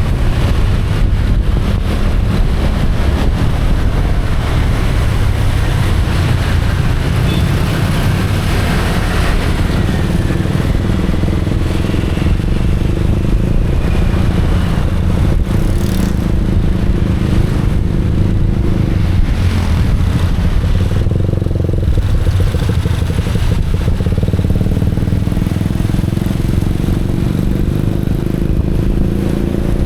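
Motorcycle running on the move, its engine note under a steady rumble of wind on the microphone, the engine pitch shifting a little about two-thirds of the way through.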